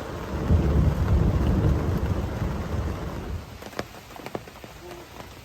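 Rain falling steadily, with a low rumble of thunder that swells about half a second in and fades after about three seconds; after it, a few close drops tap sharply.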